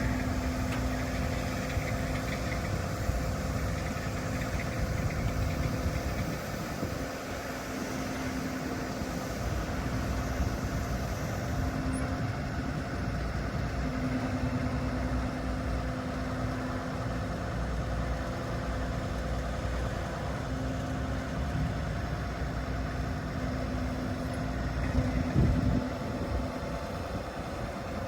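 Diesel engine of a utility bucket truck running steadily at idle. Over it, a hum breaks off and returns several times, and a brief louder knock comes about 25 seconds in.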